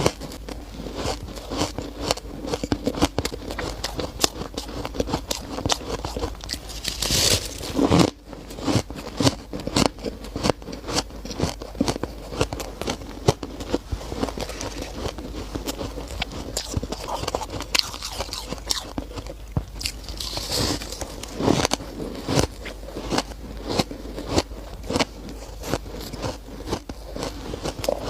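Close-miked shaved ice being bitten and chewed, a steady run of squeaky crunches with a few louder bites along the way.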